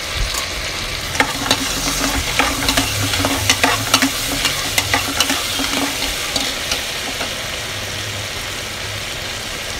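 Chopped onions, potatoes and tomatoes sizzling in hot oil in a pressure cooker, stirred with a metal spatula that scrapes and clicks against the pot. The scraping is busiest over the first several seconds and thins out near the end, leaving a steady frying sizzle.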